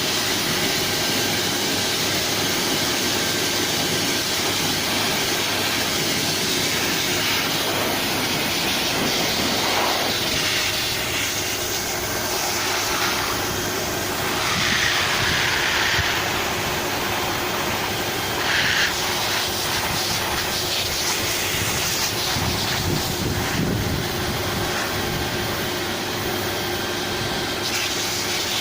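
Hair dryer running steadily, a continuous rush of blowing air with a faint steady motor whine.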